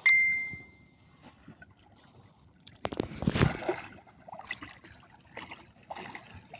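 A sharp knock with a ringing note at the start, fading over about a second, then water splashing and trickling about three seconds in, with scattered small knocks from a small fishing boat.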